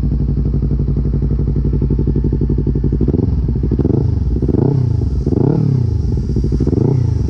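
Yamaha R25's parallel-twin engine running through a Prospeed full-system exhaust repacked with new glass wool. It idles steadily, then is revved in several short blips, each rising and falling in pitch, in the second half.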